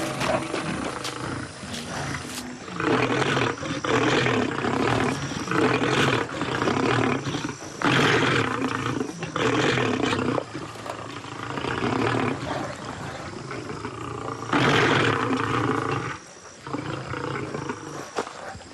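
Lions roaring in several loud outbursts of about a second each: a quarrel among lions over a share of a kill.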